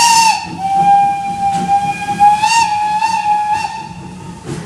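Steam locomotive's whistle blown in one long, steady blast that wavers briefly in pitch twice and cuts off near the end, with a few puffs of steam audible behind it.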